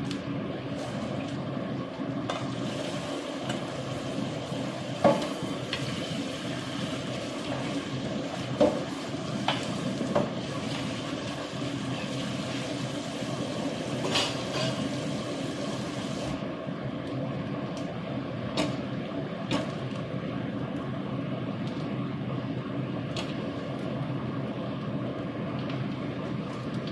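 Egg and onion omelette frying in a non-stick pan: a steady sizzle with a few sharp pops, the loudest about five and nine seconds in.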